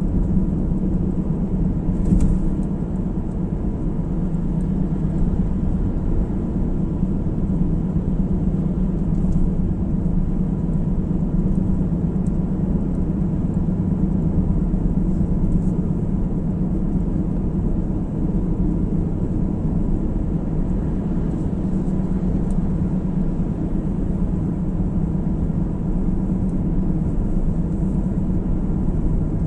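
Steady road noise heard from inside a moving car: a low, even rumble of tyres and engine. There is one brief knock about two seconds in.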